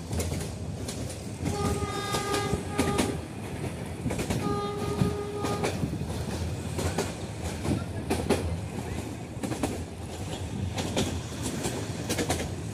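Metre-gauge passenger train running, wheels clicking and clattering over the rail joints under a steady rumble. The YDM4 diesel locomotive's horn sounds two steady blasts, the first about one and a half seconds in, the second about four and a half seconds in.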